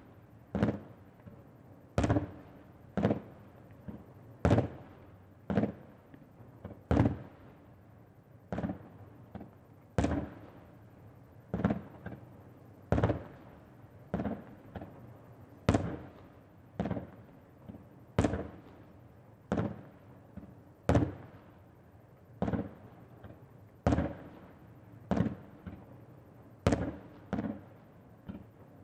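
Aerial firework shells bursting one after another in a steady run, a sharp bang about every second, each with a short echoing tail.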